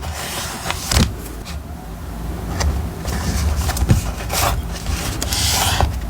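Paper and stationery rubbing and scraping on a desk, with a few sharp taps and a low rumble underneath.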